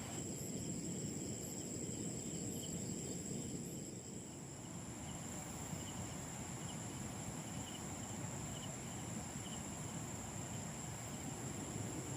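Insects giving a steady high-pitched drone, with a run of faint, evenly spaced chirps through the middle, over a low rumbling noise.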